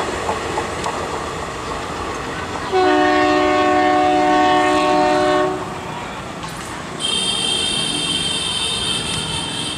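Passenger train coaches rolling past on the rails with steady wheel clatter. About three seconds in, a train horn sounds for nearly three seconds; from about seven seconds, a second, much higher-pitched tone sounds until the end.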